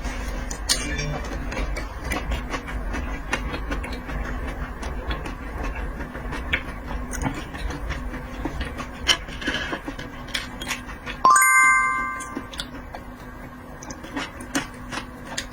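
Eating sounds: many short clicks of chewing and mouth noises over a low steady hum. About eleven seconds in, a chime-like ding rings out in several tones and fades over about a second, the loudest sound here.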